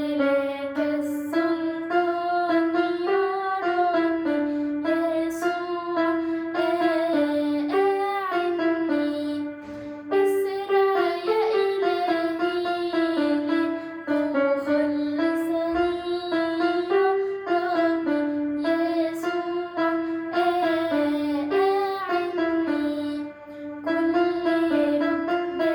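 A young girl singing an Arabic Christian hymn, a prayer to Jesus for help, over a piano or keyboard accompaniment, with a brief pause between phrases about ten seconds in.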